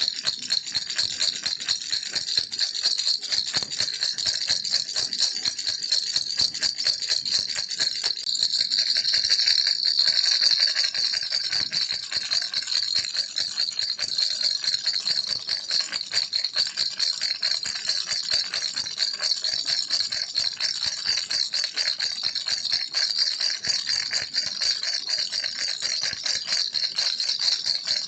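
Baby rattle (kilukki) shaken continuously, a dense, fast stream of bright clicking that swells slightly about ten seconds in.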